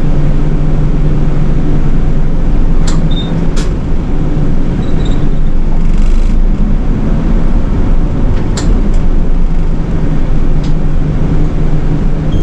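City bus running, heard from inside the cabin: a steady low engine hum, with a few sharp clicks and rattles and a short hiss about six seconds in.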